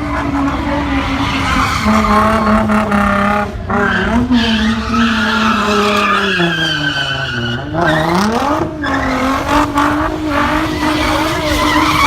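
Car doing a burnout: the engine is held at high revs while the tyres squeal and spin against the pavement. The revs sag about seven seconds in and climb again.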